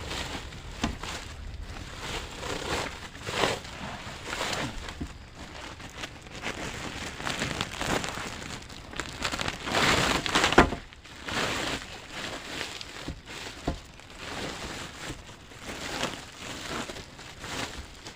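Used plastic sacks rustling and crinkling as they are handled to build a rain shelter, in irregular swells, loudest about ten seconds in.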